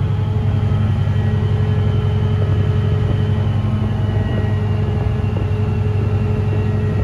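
Diesel train engine running with a steady low drone, a faint high whine slowly falling in pitch above it.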